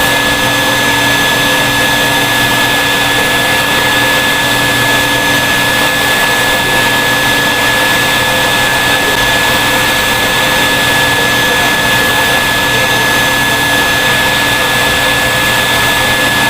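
Vacuum cleaner motor running steadily: a loud, even rush of air with a steady high whine over it.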